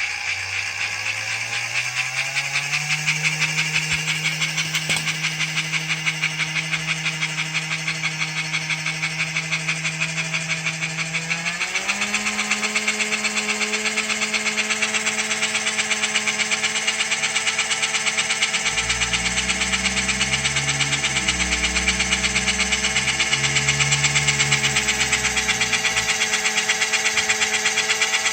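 Small electric motor of a restored American Flyer HO scale locomotive running with a steady whine and a fast, even buzzing rattle. It speeds up over the first few seconds, then jumps to a higher pitch about twelve seconds in. The uploader puts the weird buzzing down to a screwdriver against wood.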